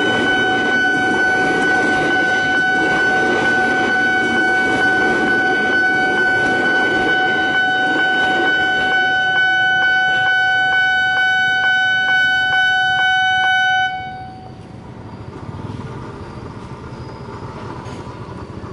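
Electric commuter train running past a level crossing while the crossing's warning alarm sounds a steady high tone over the train's rumble. The rumble fades about nine seconds in, and regular clicks follow about twice a second. The alarm cuts off suddenly about fourteen seconds in, leaving quieter street noise as the barrier lifts.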